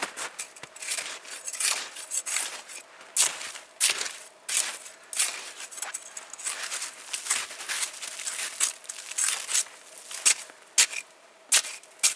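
Boots crunching in crusted snow, a quick irregular series of crunches as the snow is trampled flat.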